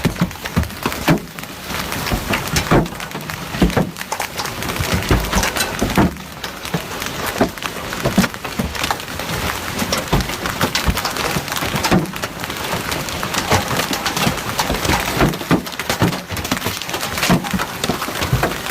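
Heavy rain falling hard, a dense steady noise broken by many irregular sharp cracks and knocks.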